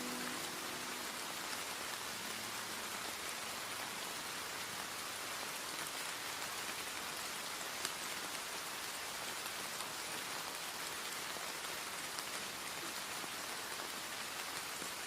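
Steady rain falling, an even hiss with a few faint drop ticks; the last notes of a song die away about a second in.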